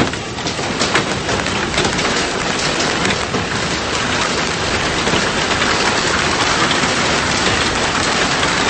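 Heavy rain pouring down: a dense, steady hiss with scattered sharp ticks of drops striking, thickest in the first second or so.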